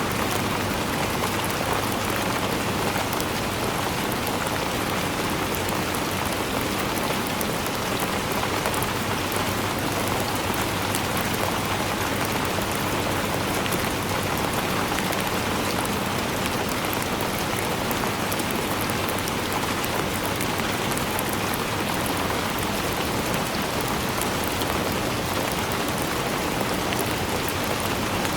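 Steady rainfall: an even hiss of rain with many fine drops pattering on a surface, unbroken and unchanging in level.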